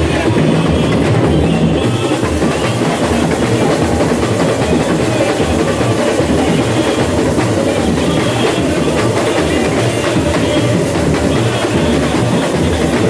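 Samba school bateria (drum section) playing a samba rhythm, deep surdo bass drums pulsing under dense snare and other percussion.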